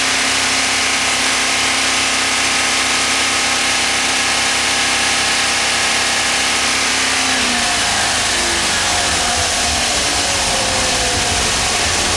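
A 5.7-litre V8 petrol marine engine of a twin-engine powerboat running steadily; about seven seconds in its note changes, with the pitch shifting and a deeper rumble coming in.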